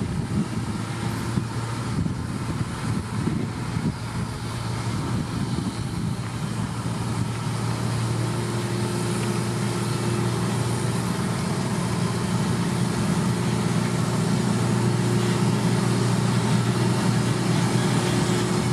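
Diesel engine of heavy construction machinery running steadily, getting a little louder through the second half, with rougher, noisier sound over the first few seconds.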